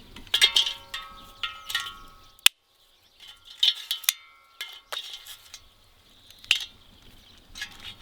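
Metal items clinking and knocking against each other, several strikes leaving a brief ring, as cooking gear is handled.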